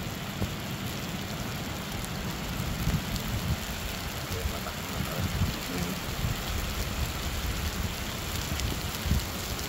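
Steady rain falling during a storm, with a low rumble underneath that swells and fades.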